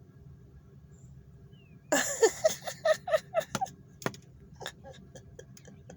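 A bluebird pecking and fluttering against a car's window glass: a quick run of taps and knocks about two seconds in, then scattered single taps, heard from inside the car over a low cabin hum.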